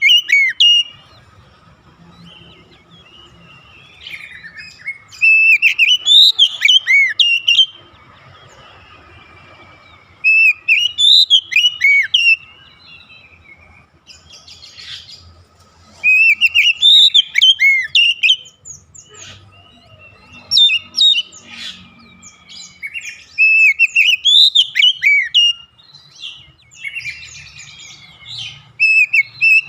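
Oriental magpie-robin (kacer) singing: loud bursts of quick, varied whistled notes with sweeping up-and-down slurs, repeated every few seconds with short pauses between phrases.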